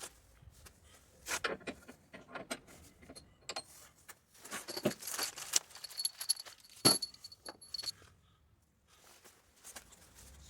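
Small metal objects clinking and knocking together in irregular clicks, with a brief high metallic ringing in the middle and one sharper knock near the end of that ringing.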